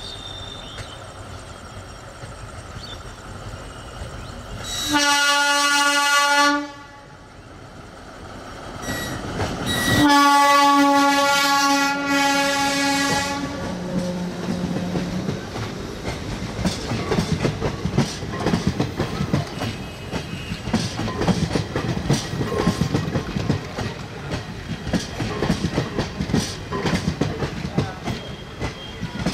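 Old ICF DEMU (diesel-electric multiple unit) train sounding its horn twice, a short blast about five seconds in and a longer one about ten seconds in. Then its coaches pass close by, wheels clicking rhythmically over the rail joints with a steady rumble.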